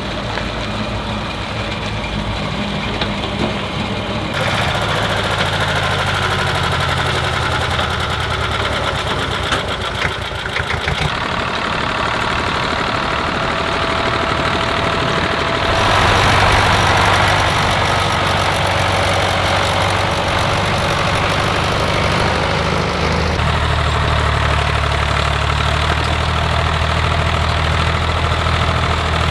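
Tractor engines running as tractors drive in one after another, the engine note changing several times, loudest about halfway through.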